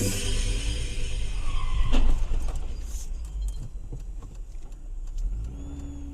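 Car driving, a steady low engine and road rumble, with a sharp knock about two seconds in and a few lighter clicks after it.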